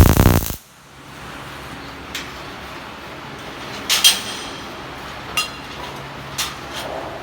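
A short loud burst of noise that cuts off sharply about half a second in, then four separate metallic clinks with a brief ring, as of steel tools or plates knocked together, spread out over the next few seconds.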